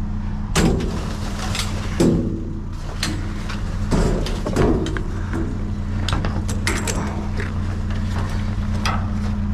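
A vehicle engine idles steadily under repeated knocks and clatter from hard objects being handled and set down.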